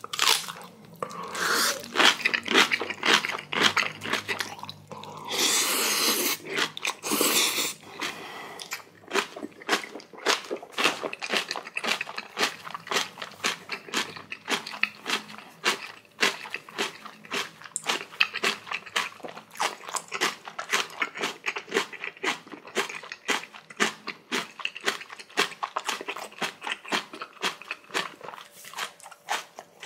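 Close-miked eating of spicy kimchi with jajangmyeon noodles: long noisy slurps about six to eight seconds in, then a fast, even run of wet crunching chews, a few a second.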